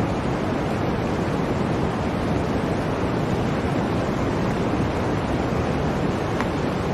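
Blizzard wind blowing as a steady, dense rush of noise, heaviest in the low end.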